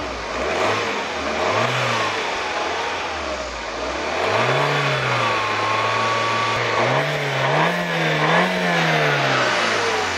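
Turbocharged four-cylinder engine of a 2012 Mini Cooper S coupe being revved repeatedly, its pitch rising and falling several times, with one longer held rev in the middle. The engine is being run to burn off a large engine-oil overfill (about 14 litres in a 5-litre engine), and the oil is smoking out through the turbo and exhaust.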